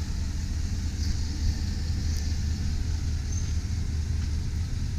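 2005 Chevy Silverado 2500 HD pickup's engine idling with a steady low rumble, with a couple of faint ticks.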